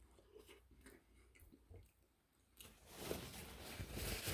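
A person chewing a mouthful of soft sandwich, faint at first and louder from about two and a half seconds in.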